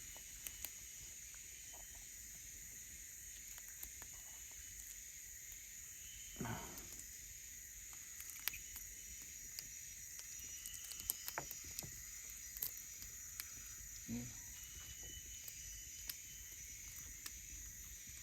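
Steady high-pitched insect chorus, with scattered faint clicks and knocks and two brief low thuds.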